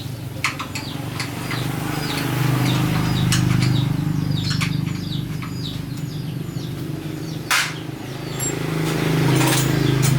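Small birds chirping over and over, each call a quick high downward slide, over a steady low machine hum that swells twice, with a few sharp knocks.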